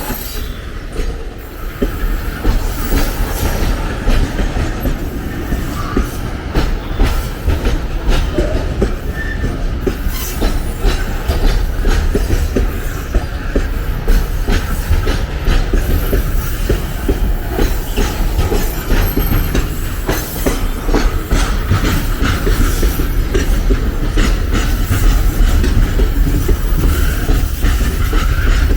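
A train's wagons rolling past close by, wheels clicking rapidly over the rail joints in a continuous clatter, with occasional wheel squeal.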